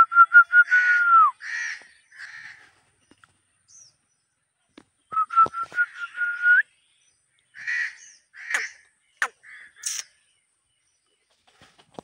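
Birds calling outdoors, with crows cawing. There are two runs of quick, evenly spaced whistled notes that rise slightly, the first ending in a falling note, and short harsh caws between and after them.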